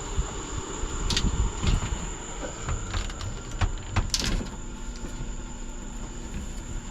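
Hands wrestling a stuck rubber hose off a boat's inboard engine: irregular scuffing, creaks and small knocks of metal and rubber, the sharpest about a second in and again around three and four seconds. A steady high-pitched whine runs underneath.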